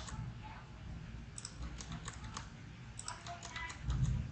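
Computer keyboard keys tapped in scattered clicks, a few at a time, over a steady low hum.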